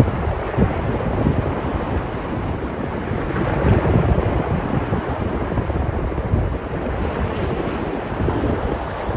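Waves breaking and washing on the shore in steady surf, with wind buffeting the microphone.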